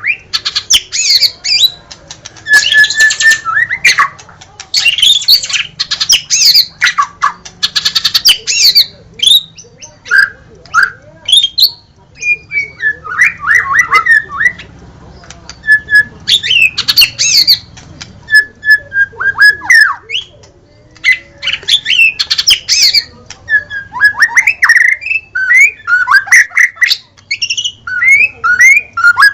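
White-rumped shama singing in full song, a long run of loud, varied phrases. Clear whistles mix with quick sweeping notes, harsh chatters and sharp clicks, with only brief pauses between phrases.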